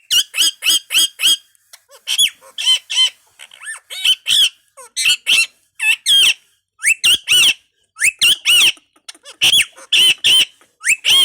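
Indian ringneck parrot calling: loud, short, sharp squawks, opening with a quick run of about four a second and then coming in irregular clusters.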